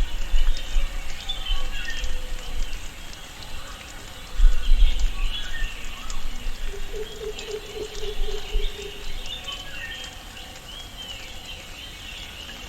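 Rainforest ambience: many birds chirping and calling over a bed of insects and light patter, with a low pulsed call for about two seconds in the middle. Low rumbling comes and goes in the first half, loudest about four seconds in.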